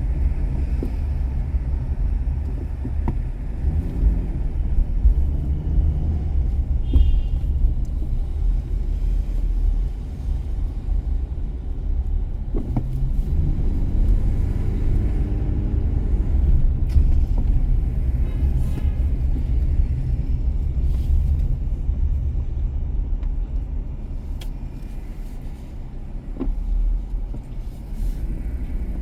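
Car driving on city streets: a steady low road and engine rumble, with a few faint clicks and ticks.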